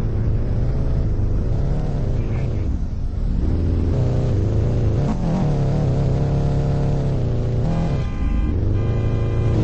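A car engine running loudly and revving, its note shifting up and down, with two short dips.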